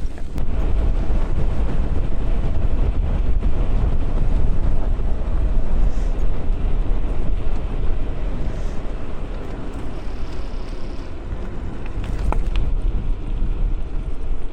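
Steady wind rushing over the microphone while riding an electric bike, with road and tyre noise underneath.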